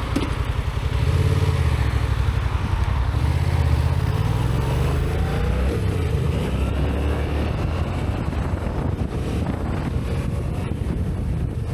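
2018 Yamaha MT-07's parallel-twin engine, stock exhaust, running while riding. Its pitch rises about four to six seconds in as it accelerates.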